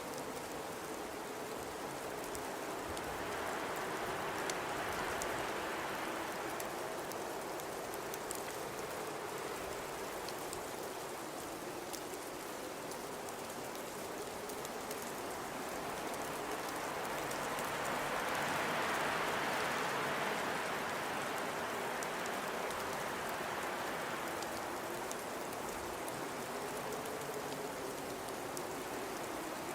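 Blizzard wind blowing with the hiss of driven snow, swelling into two long gusts, a few seconds in and again past the middle, over a faint wavering low whistle.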